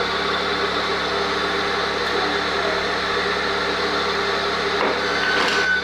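Steady hum of a running motor, with a brief louder swish near the end.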